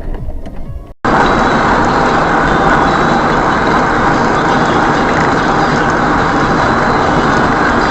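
Music ends with a short gap about a second in, then steady car engine and road noise starts abruptly and runs on unchanged.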